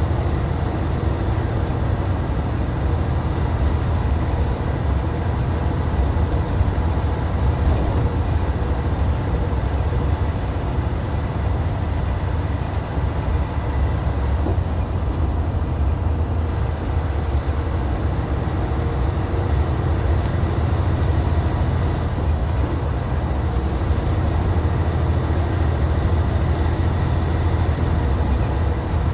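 Hyundai D6CC Powertec 380 inline-six diesel of a Hyundai Universe Comfort coach running at a steady pace, a deep low drone mixed with road noise, with no revving or gear changes.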